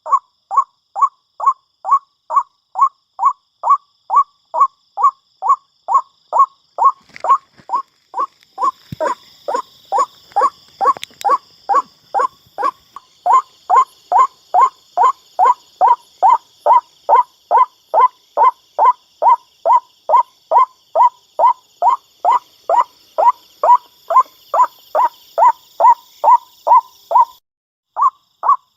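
White-breasted waterhen (ruak-ruak) calling: a steady run of short, loud notes, about two a second, each dropping a little in pitch. A faint high hiss sits behind the middle part, there is a single knock about nine seconds in, and the calling breaks off briefly near the end before starting again.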